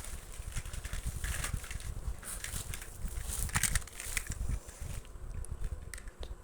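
Irregular clicks, crackles and rustling over a low, uneven rumble, like small objects being handled close to the microphone.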